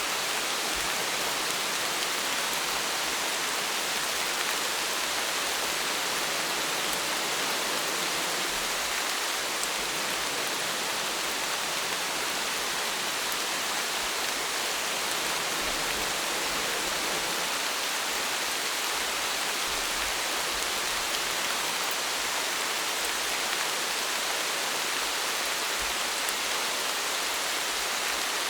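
Steady rain falling, a continuous even hiss with fine droplet patter.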